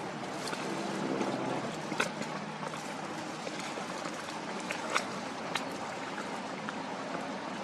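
Steady rushing of wind and river water, with a cruiser's engine humming low for about a second near the start and a few sharp knocks about two and five seconds in.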